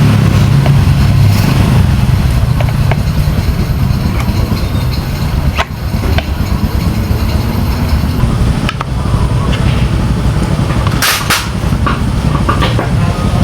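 Steady low engine rumble with a few sharp clicks, two of them close together near the end.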